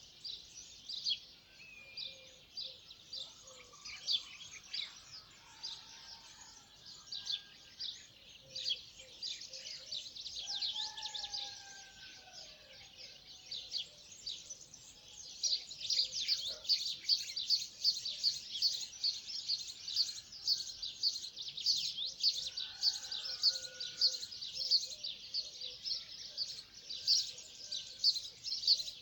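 Birds chirping in a dawn chorus: dense, rapid high chirps that grow louder and busier about halfway through, with a few lower whistled notes from other birds now and then.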